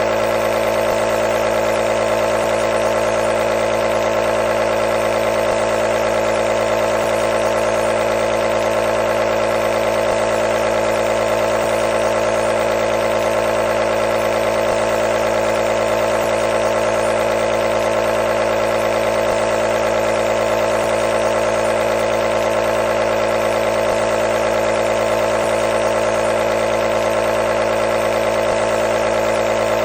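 Nebulizer's compressor running steadily, a constant mechanical hum with a hiss of air.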